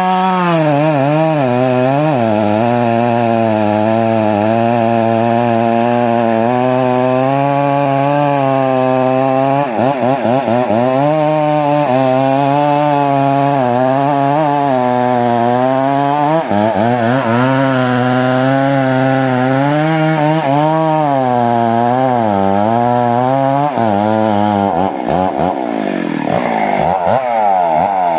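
Chainsaw engine running under load as it cuts into the trunk of a johar tree, its pitch dipping and recovering over and over. Near the end the revs swing up and down more sharply.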